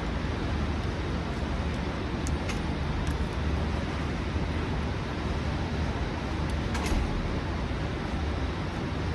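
Steady low rumble of outdoor background noise with a few faint clicks, the clearest about seven seconds in.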